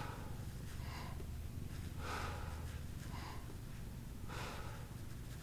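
A person breathing audibly through the nose and mouth while holding a yoga boat pose: soft breaths about a second apart over a low steady room hum.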